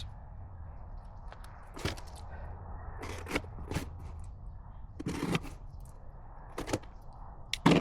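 Cardboard box and packaging being opened and handled, with scraping and about six sharp knocks and taps of parts, under a low steady hum.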